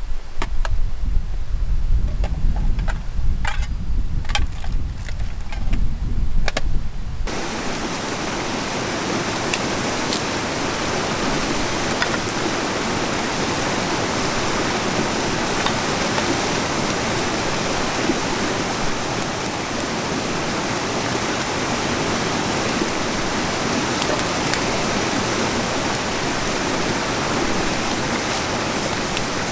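Wind buffeting the microphone as a low rumble, with a few light clicks. About seven seconds in it cuts abruptly to the steady rushing of river water.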